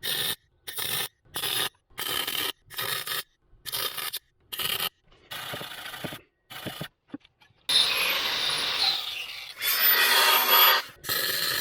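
Wire-feed welding gun stitch-welding a thin, about 1 mm, steel rust patch. It sizzles in short bursts of about half a second with silent gaps between them, then in two longer runs of about a second and a half near the end.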